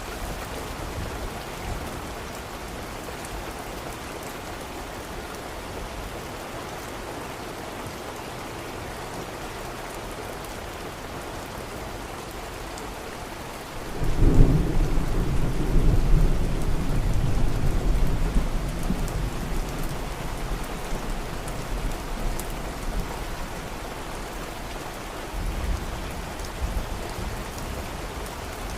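Steady rain falling, with a sudden deep roll of thunder about halfway through that swells and slowly fades over several seconds, and a fainter rumble near the end.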